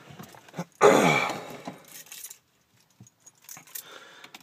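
Keys jingling and clinking with scattered small clicks, before the van's engine is cranked. About a second in comes a louder, briefer sound that falls in pitch.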